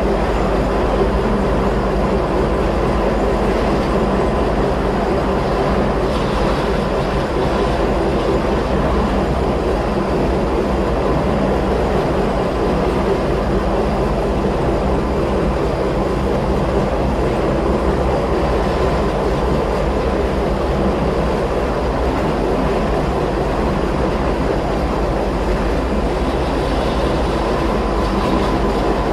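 Inside an electric rack-railway (cog) train climbing, heard from the passenger car: a steady, even running noise of motors and running gear with a deep rumble, and a thin steady high tone over it.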